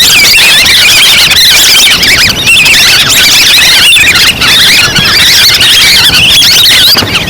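Recorded calls of a large flock of wild ducks, played loud as a hunting lure: many overlapping high whistling chirps.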